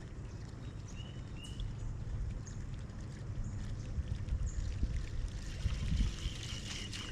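River water flowing, with a low rumble underneath and a couple of short high chirps about a second in.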